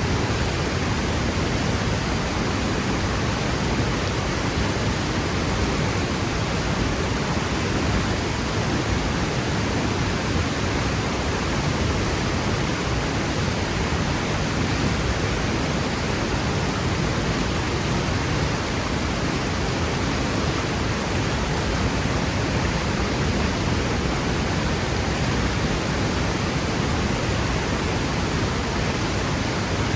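Waterfall crashing steadily, a constant even rush of falling water with no change or pause.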